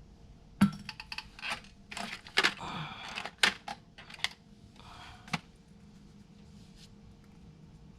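Tools and parts being handled and set down: a run of sharp clicks and light clatters with some rustling over the first five seconds or so, then quiet handling.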